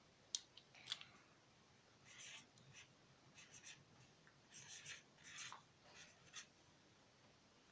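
Felt-tip marker writing on paper: faint, short scratchy strokes in small groups with pauses between them.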